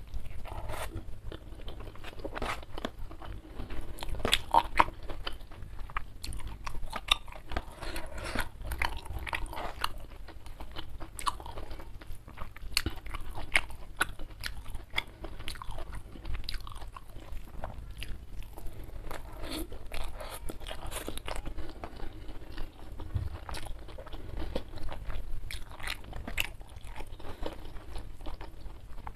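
Close-miked chewing of mouthfuls of rice and side dishes, with frequent irregular crunches and wet mouth clicks.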